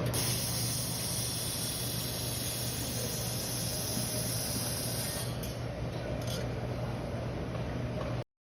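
Handheld laser welding machine running with a steady low hum, while a hiss, typical of shielding gas blowing from the welding torch, stops about five seconds in; two short hisses follow.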